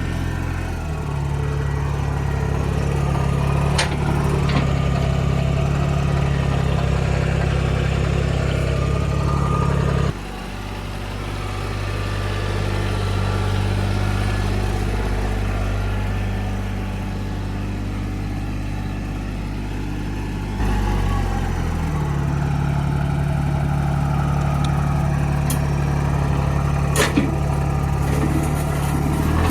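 TYM 224 compact tractor's engine running steadily while the tractor works. The engine speed drops about ten seconds in and picks up again about two thirds of the way through, with a few faint clicks over it.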